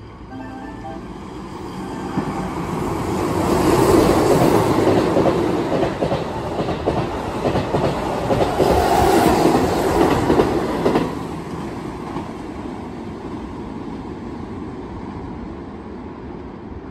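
Keihan 8000 series electric train passing through a station at speed without stopping. A rising rumble builds into a loud run of wheel clatter over the rail joints for about seven seconds. It drops away suddenly as the last car clears, leaving a fading rumble.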